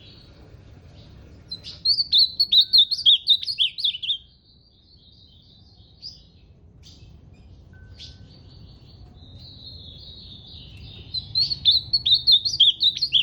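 Ultramarine grosbeak (azulão) singing: two loud phrases of quick, warbling notes, one about two seconds in and one near the end, with soft twittering between them.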